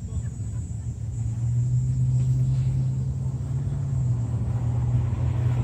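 An engine running steadily with a low hum, louder from about a second and a half in.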